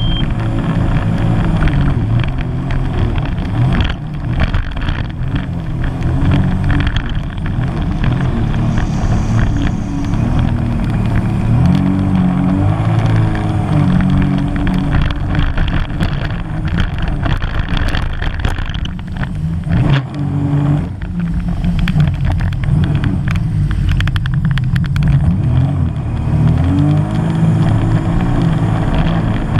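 Sea-Doo GTR 215 jet ski's supercharged three-cylinder engine running hard, its pitch dipping and rising a few times as the throttle changes through manoeuvres.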